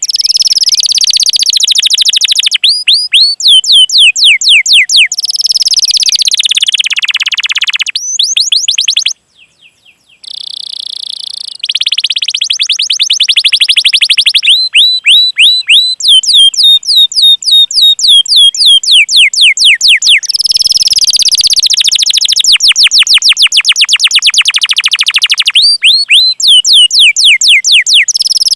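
Domestic canary singing loudly: long, rapid series of sharply falling whistled "cuit cuit" notes run together into rolls, several notes a second, with a short break about nine seconds in.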